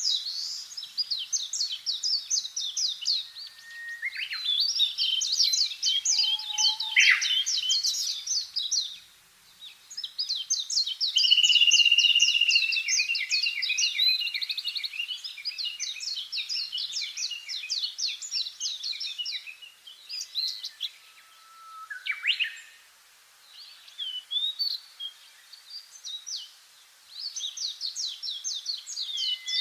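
Several small songbirds singing and chirping in rapid, overlapping trills, with brief lulls about a third of the way in and again past two-thirds.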